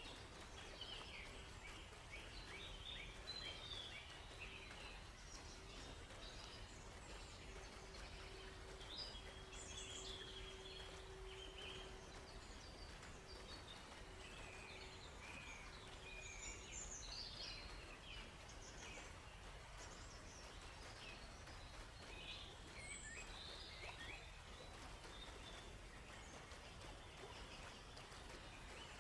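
Wild songbirds chirping and trilling faintly in a forest, many short calls overlapping throughout over a steady low background hiss. A faint steady hum runs through the first half and then fades out.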